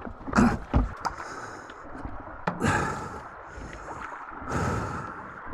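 Water splashing and heavy, gasping breaths in a few short noisy bursts, right after a motorcycle has fallen in a slippery ford.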